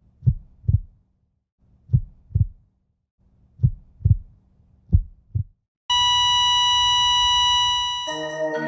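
Heartbeat sound effect: four double thumps, one about every 1.3 seconds, then a long steady beep from about six seconds in, giving way to music near the end.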